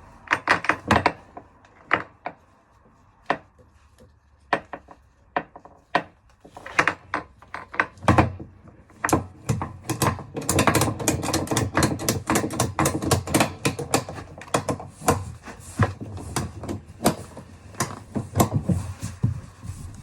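A run of sharp clicks and knocks from hand work on the water tank's floor anchors and straps. They come singly at first, then pile into a rapid clatter through the middle, then thin out again.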